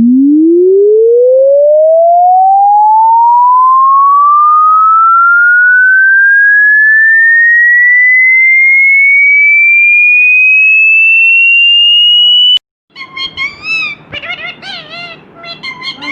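Loud electronic pure-tone sweep, a single tone rising steadily from a deep hum to a high whistle over about twelve seconds, then cutting off suddenly. Parrot calls, short squawks rising and falling in pitch, follow in the last few seconds.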